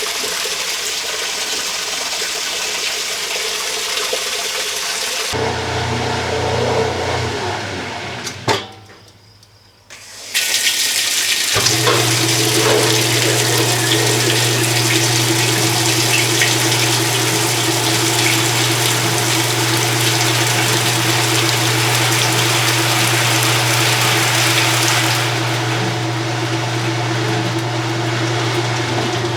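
1993 Kenmore 80 Series top-load washer on its water test: water rushing into the tub, then, after a brief near-silent gap, the machine running with a steady low motor hum under the splashing water.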